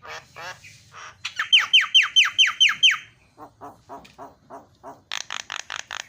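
Javan myna (jalak kebo) singing in a varied, chattering run: harsh rattling notes, then a fast series of about eight loud descending whistles, then rasping notes and a quick burst of sharp harsh notes near the end.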